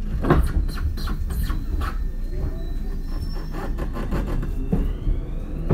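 Tobu 30000 series electric train heard from inside the car as it gets under way. The wheels clack over rail joints and points above a constant low rumble, and a faint motor whine rises in pitch.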